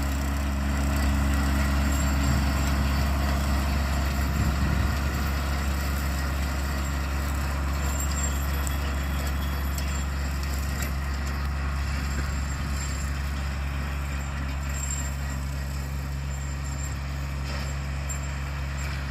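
Tractor engine running steadily under load while pulling a bush hog rotary mower through grass, a low even drone that grows slightly fainter over the last several seconds.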